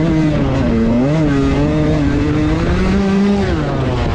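Husqvarna CR125 two-stroke dirt bike engine being ridden, revving up and down through the throttle. The pitch dips early on, climbs steadily for a couple of seconds, then drops about three and a half seconds in.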